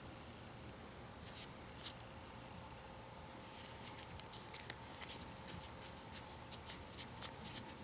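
Light clicks and rattles of small hand tools being handled, sparse at first and busier from about halfway, over a faint steady hum.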